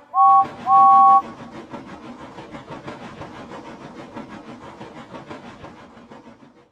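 Steam locomotive whistle giving two two-note toots, a short one then a longer one, followed by rapid rhythmic chuffing that fades away as the engine pulls off.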